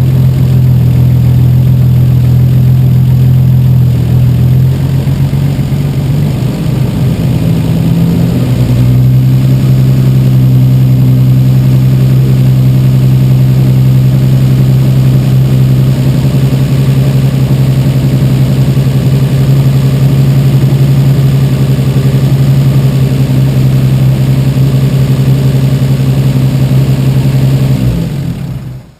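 Freshly rebuilt Toyota 1JZ-GTE 2.5-litre straight-six turbo engine running steadily on its first runs after the rebuild. Its note dips and rises briefly about six to eight seconds in, and the engine is switched off near the end.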